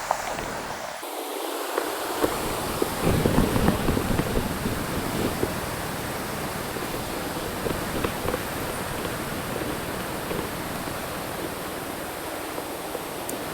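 Steady rushing noise of water, with low rumbling bursts on the microphone from about three seconds in.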